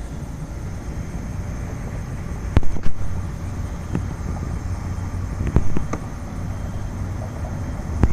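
Wind rumbling on the microphone, with a faint steady high whine and a few knocks of the camera being handled, loudest about two and a half seconds in.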